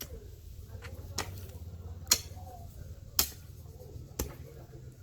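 Strikes of a hand digging tool chopping into soil, about one a second, as small shallow planting holes for corn are dug along a row.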